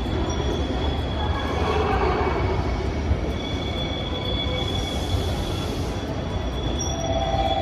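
A train running at low speed on station tracks: a steady rumble with thin, high wheel-squeal tones over it, and a lower whine coming in near the end.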